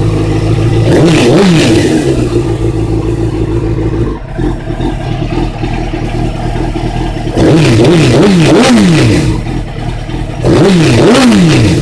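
2001 Suzuki GSX-R750 inline-four idling through a cut-down Yoshimura RS3 exhaust, with sharp throttle blips that rise and fall quickly. There is one blip about a second in, a run of three about two-thirds of the way through, and two more near the end.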